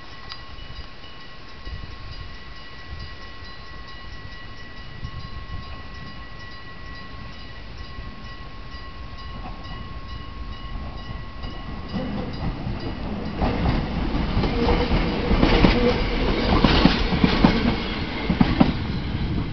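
A level-crossing alarm rings with steady, evenly repeating tones. From about twelve seconds in, an electric commuter train approaches and passes close by, getting louder, its wheels clattering over the rail joints.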